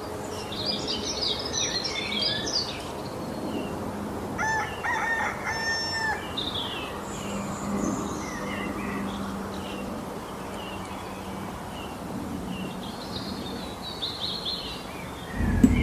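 Farmyard ambience: small birds chirping on and off, and a rooster crowing once about four and a half seconds in.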